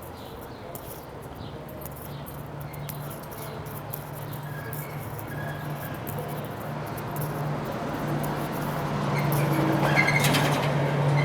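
Street traffic: a motor vehicle's engine hum over road noise, growing steadily louder as it draws near, loudest near the end.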